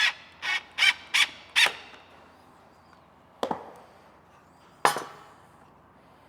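Power drill whining in four short trigger pulses, driving screws into plywood, then two sharp knocks about a second and a half apart.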